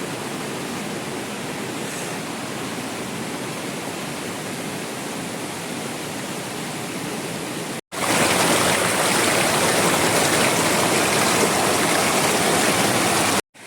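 Heavy rain falling as a steady hiss of water. It breaks off for a moment about eight seconds in and comes back louder and brighter.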